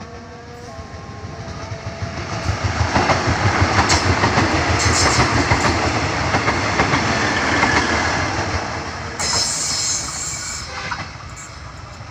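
Kualanamu airport rail link train passing close by, its wheels clattering rhythmically over the rail joints. The sound builds up, holds loud for several seconds, then fades, with a brief high-pitched burst of noise about nine seconds in.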